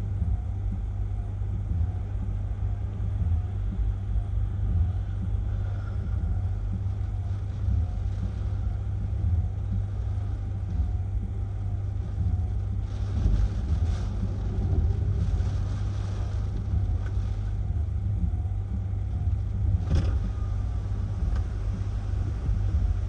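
Hurricane-force wind buffeting the microphone: a heavy, continuous low rumble that surges and eases, with a couple of brief sharp knocks partway through.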